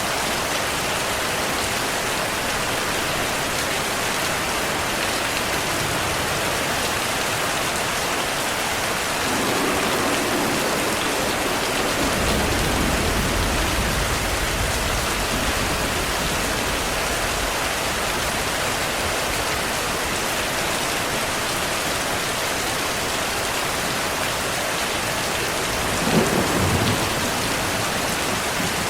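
Steady heavy rain with thunder: a low rumble swells about a third of the way in, and a sharper, louder thunderclap with a short rumble comes near the end.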